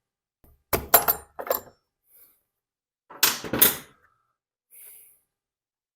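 Hand tools and a leaf blower's spark plug being handled on a workbench: a few sharp knocks and clatters, one cluster about a second in and another louder one around three and a half seconds in.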